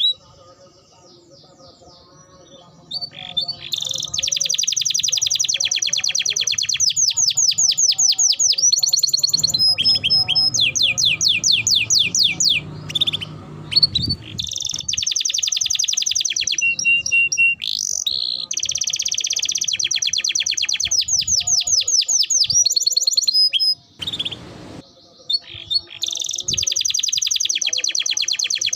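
Domestic canary singing long rolling trills of rapidly repeated high chirps, phrase after phrase. It is nearly quiet for the first three seconds, with a short break about two-thirds of the way in.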